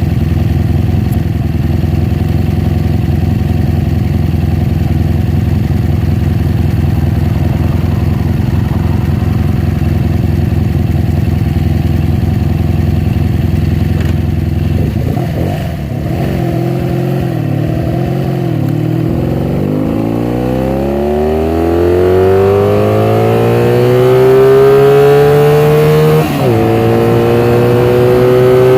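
A 1982 Honda Magna's V4 engine running through new Emgo aftermarket mufflers: it idles steadily for about half the time, then the engine speed climbs steadily as the motorcycle accelerates. Near the end the pitch drops sharply at a gear change, then climbs again.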